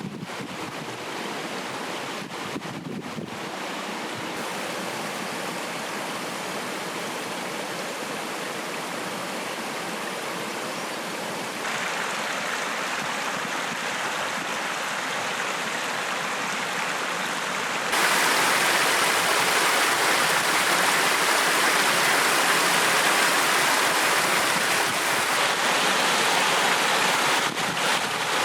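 Stream water flowing, a steady rush that grows louder in two sudden steps, about twelve and about eighteen seconds in, then drops back near the end.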